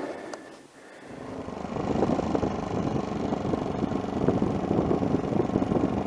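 Adventure motorcycle's engine running as the bike rides off. The sound builds up about a second in and then holds steady.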